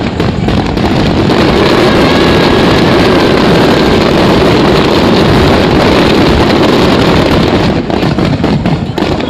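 A fireworks finale barrage: shells bursting so rapidly that the bangs merge into one continuous loud noise, thinning near the end into more separate cracks.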